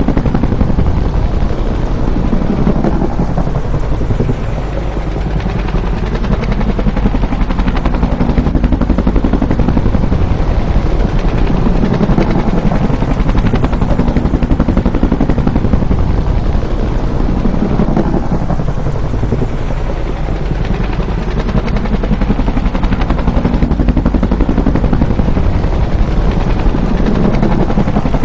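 Bell UH-1 "Huey" helicopter flying by: a rapid, steady slapping of its rotor blades over a constant engine rumble. The sound swells and fades twice as the aircraft passes.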